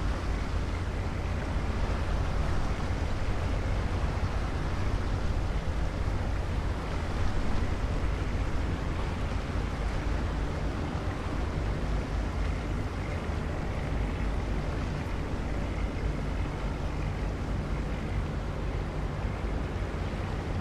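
Wind buffeting the microphone over a steady low drone of a river boat's engine.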